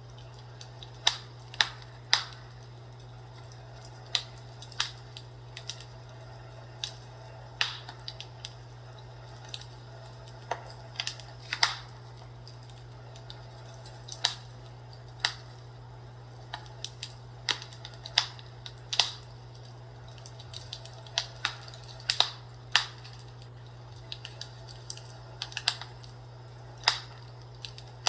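Fireplace crackling with irregular sharp pops and snaps, about one or two a second, over a steady low hum.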